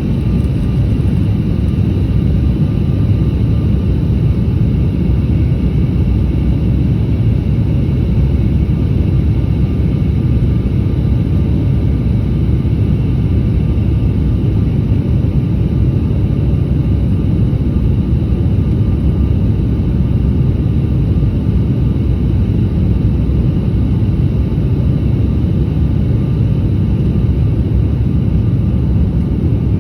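Airliner cabin noise in flight: a steady low rumble of engines and rushing air, with a few faint steady tones above it.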